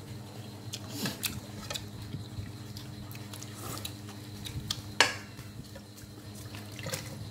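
Eating at the table: scattered clicks and clinks of chopsticks on bowls and plates with chewing, one sharp clink about five seconds in, over a steady low hum.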